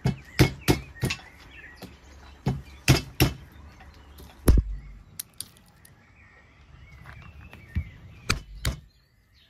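A hammer cracking walnuts on a wooden chopping stump: a series of sharp knocks, a quick run of them in the first few seconds, one heavier thud about halfway, and three more near the end. Birds chirp faintly in the background.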